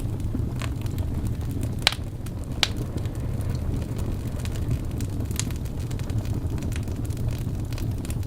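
Fire burning in a fireplace: a steady low rumble with scattered sharp crackles and pops, the loudest about two seconds in.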